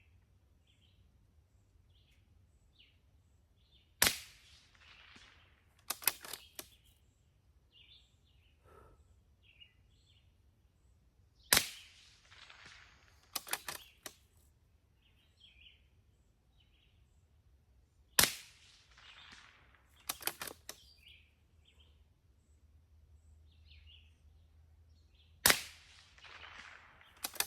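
Four .22 LR rifle shots firing subsonic Eley match ammunition, each a single sharp report, about seven seconds apart. About two seconds after each shot comes a quick run of metallic clicks as the rifle's action is cycled for the next round.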